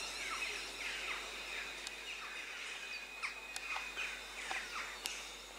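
Small birds chirping over and over, short quick downward-sweeping calls, with a faint steady high tone underneath.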